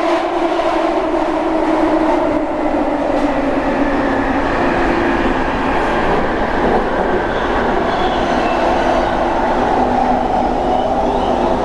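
London Underground 1996 Stock train running at speed: steady rumble of wheels on rail with the whine of its traction motors. The whine sinks a little in pitch early on and rises again in the second half.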